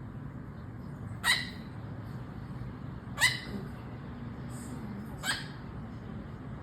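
Pet parrot imitating a dog's bark: three short, sharp bark-like calls about two seconds apart.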